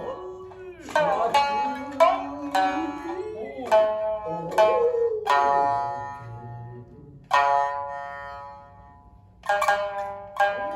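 Shinnai-bushi shamisen playing: sharp plucked notes ringing out, a long decaying note about seven seconds in, then a quick run of plucks near the end. In the first half the jōruri singer holds a drawn-out, wavering sung note over the shamisen.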